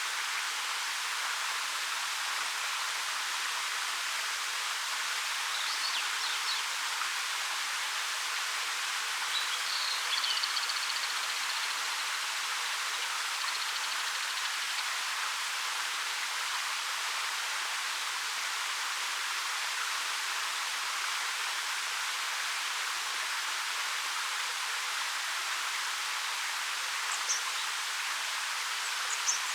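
A 13 m waterfall pouring over rock, a steady, even rush of falling water. A few faint short bird chirps come through it around a fifth to a third of the way in, and twice more near the end.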